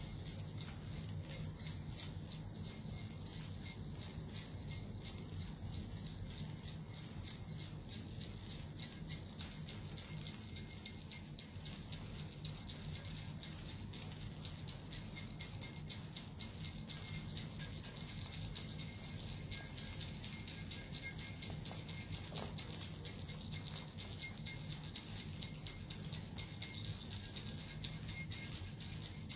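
Suzu bells and a metal rattle shaken continuously in a steady, dense jingling.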